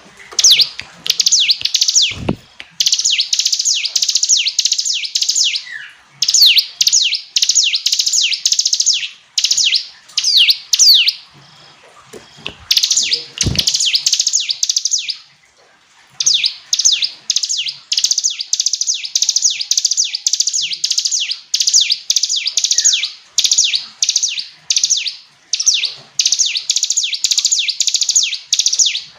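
Ciblek gunung, a small prinia, singing: fast, shrill strings of quick sweeping notes in bursts of a few seconds with brief pauses between them. Two dull low thuds, about two seconds in and near the middle.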